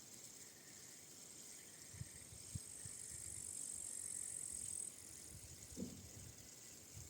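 Rowing boat on a quiet river between strokes: a few faint low knocks of the oars in their oarlocks, and a faint high hiss that builds for a couple of seconds and stops about five seconds in.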